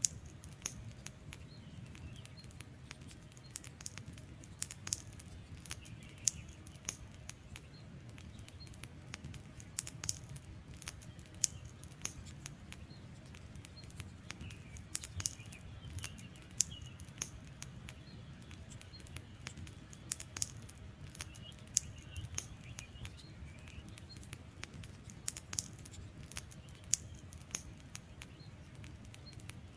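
Wood fire burning, with irregular sharp crackles and pops over a low steady rumble of flames, and faint chirping calls a few times in the background.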